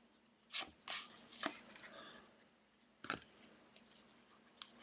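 Football trading cards being handled and slid against one another in the hand: about four short, sharp card swishes and snaps, with quiet gaps between them.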